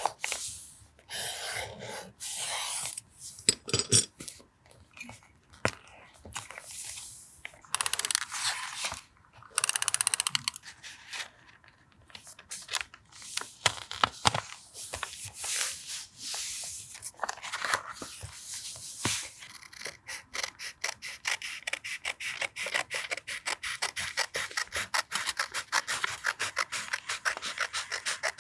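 Paper being handled, rustled and torn for a journal collage, then in the last third a fast, even run of small mechanical clicks.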